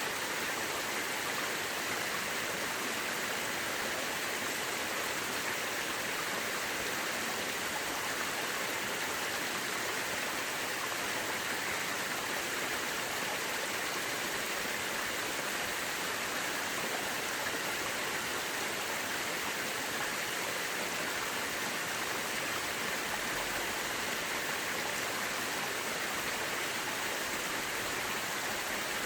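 Mountain river rushing steadily over rocks, an even, unbroken wash of water noise.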